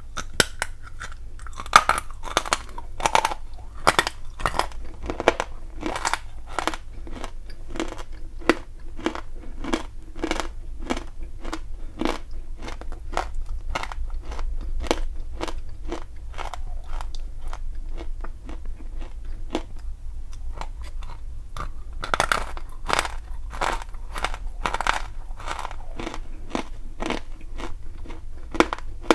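Close-miked crunching and chewing of hard lumps of chalk and clay in the mouth: crisp cracking bites in the first several seconds and again about three quarters of the way in, with quieter grinding chews in between.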